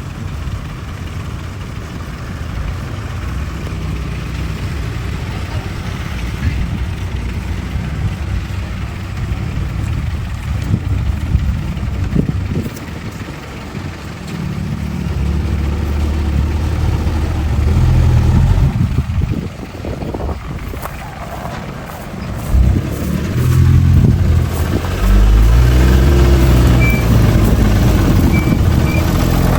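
Heavy diesel engines of earthmoving machinery at work, running steadily, then revving up under load twice: about halfway through and again from a little after two-thirds of the way in.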